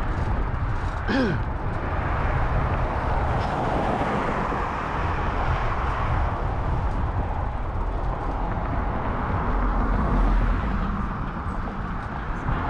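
Steady rushing wind and road noise while riding a bicycle along a street, with a brief vocal sound about a second in.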